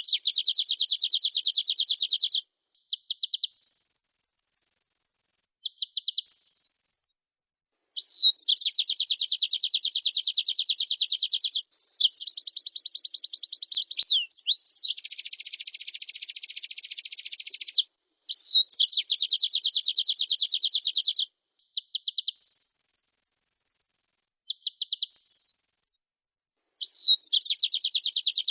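White-eye (pleci) song: long, fast, even trills alternating with short slurred notes and bursts of very high buzzy chatter, phrase after phrase with brief pauses between. It is a busy, fill-in-rich song of the kind keepers play to get other white-eyes to answer.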